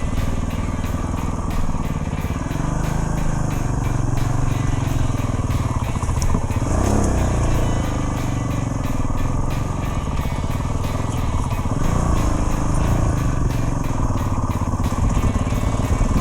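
Dual-sport motorcycle engine running under way, its pitch shifting as the throttle changes, with a dip and rise about seven seconds in and again near twelve.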